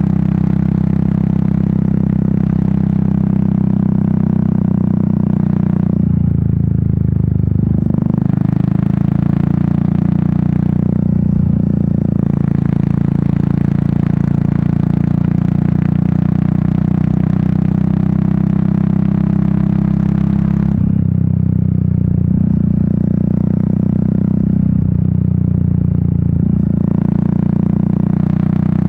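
Royal Enfield Meteor 350's 349 cc single-cylinder engine and exhaust running steadily while riding, a low even thump, with a hiss above it that drops away for a while about 21 seconds in.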